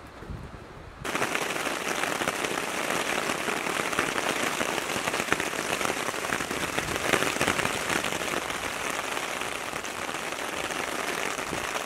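Rain falling on a tarp shelter overhead: a dense, even spread of tiny drop impacts that starts abruptly about a second in and holds steady.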